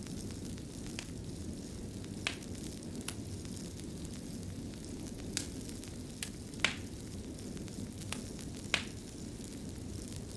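Wood fire burning in a fireplace: a steady low rumble with scattered sharp crackles and pops, about eight in all, the loudest two coming late.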